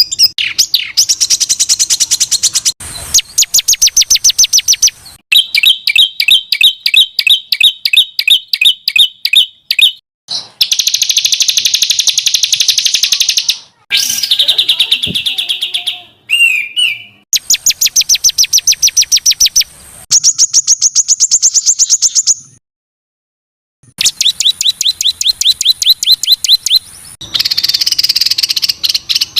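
Songbird song given as rapid-fire 'tembakan': dense, harsh trains of repeated high notes at several to the second. Bout after bout changes abruptly from one note pattern to another, with a brief silent break about three-quarters of the way through.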